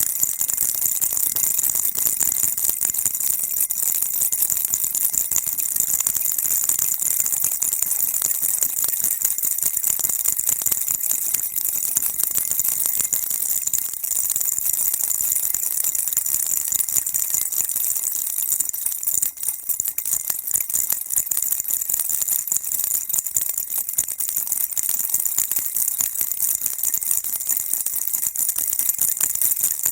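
Baby rattle shaken without pause: a dense, steady high-pitched jingling that dips briefly about two-thirds of the way through.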